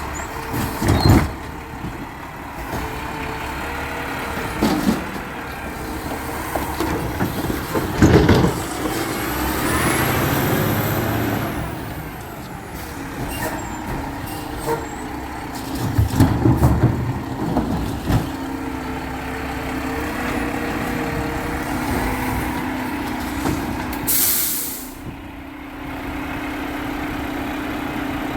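Garbage truck's diesel engine running, with several loud bangs, the engine revving up and falling back in the middle, and a short air-brake hiss near the end.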